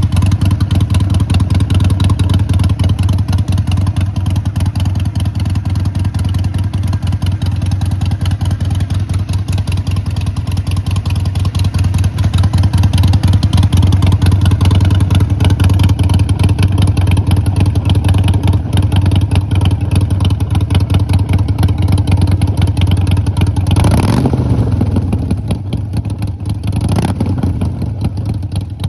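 Harley-Davidson Iron 883 Sportster's air-cooled 883 cc V-twin idling with an even, loping exhaust pulse. Near the end comes a brief throttle blip whose pitch falls back to idle.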